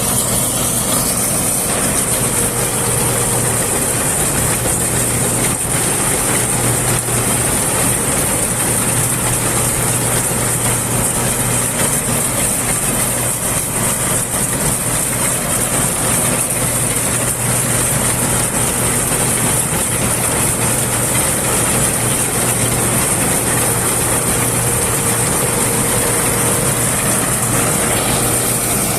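Combine harvester running steadily at working speed, a constant engine hum with a high, even hiss over it.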